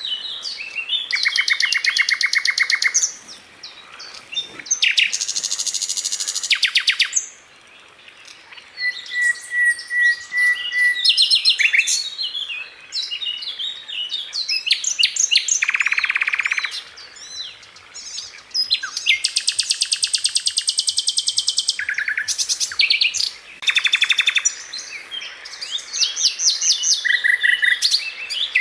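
Sikatan londo (a flycatcher) singing a dense, rapid song: fast trills of sharp repeated notes in bursts of one to three seconds, mixed with short whistles and chips, with only brief pauses between phrases.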